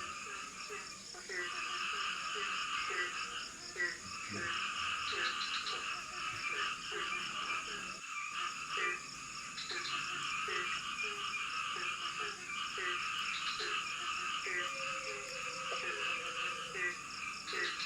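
A chorus of forest frogs calling. A lower call repeats about twice a second over a denser, higher chattering chorus, with a steady high insect drone beneath.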